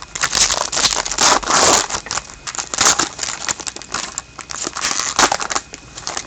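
Plastic packaging crinkling and crackling as a box of hockey trading cards is unwrapped and opened, in several irregular bursts, the longest in the first two seconds.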